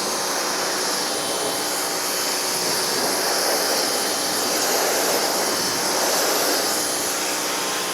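Pressure washer spraying water in a steady hiss, rinsing degreaser off a truck.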